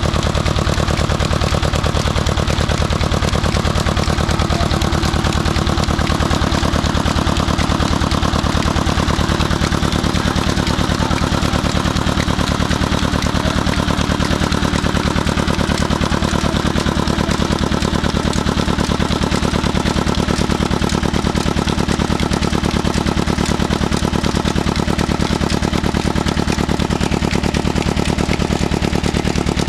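35 hp diesel tubewell engine running steadily at constant speed, with a rapid, even knocking beat from its firing strokes.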